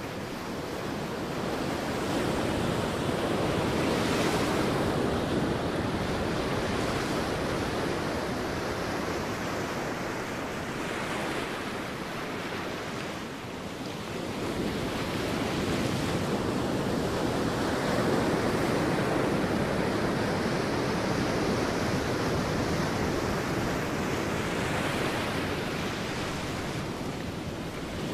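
Sea waves breaking on a beach: a continuous wash of surf that swells and eases in slow surges, louder a few seconds in and again past the middle, with a lull in between.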